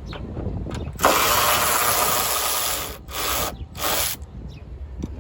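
Small power tool running in bursts while it backs out a bolt: one run of about two seconds starting about a second in, then two short bursts.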